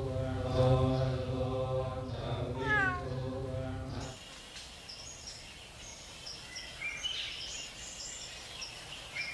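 A cat meows once, a falling cry about three seconds in, over a steady low chanted drone. The drone cuts off suddenly about four seconds in, leaving a quieter background of scattered high chirps.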